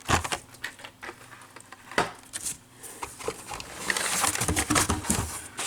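Handling of carded Hot Wheels die-cast cars in plastic blister packs: sharp clicks and light knocks, then a stretch of rustling and sliding about three and a half seconds in.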